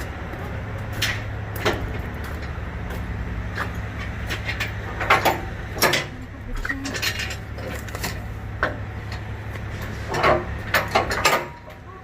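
Semi-truck diesel engine idling with a steady low hum, overlaid by sharp metal clanks and knocks every second or two, with a cluster near the end. The engine hum drops away abruptly just before the end.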